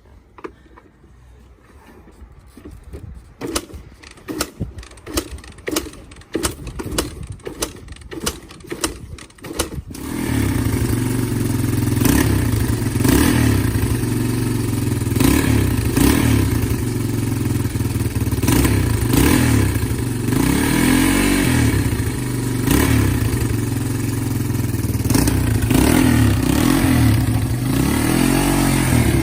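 Irregular knocks and clatter for about ten seconds. Then the 1990 Honda XR200R's single-cylinder four-stroke engine catches on choke and runs steadily, its revs rising and falling several times.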